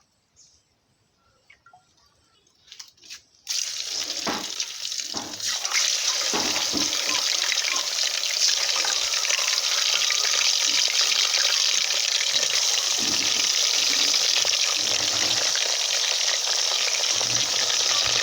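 Boiled meat frying in hot groundnut oil: a loud, steady sizzle that starts suddenly a few seconds in, with a few low knocks as the pieces go in.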